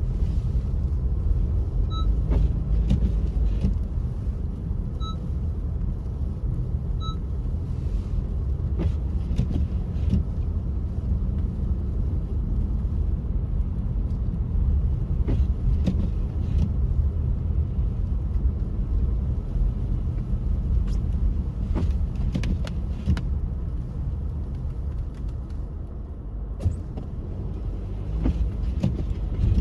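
Car driving on a snowy road: a steady low rumble of engine and tyre noise, with scattered light knocks and three short high beeps a few seconds apart near the start.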